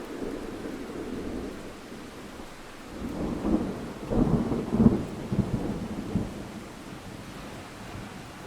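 Steady rain with a roll of thunder rumbling up about three seconds in, loudest around the middle, then dying away.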